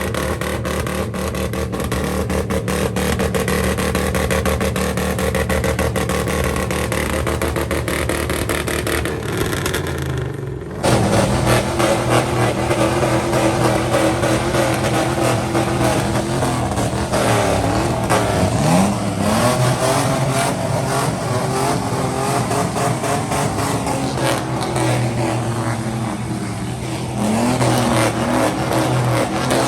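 Loud car and truck exhausts running and revving, with engine pitch rising and falling. The sound cuts abruptly about ten seconds in and comes back louder.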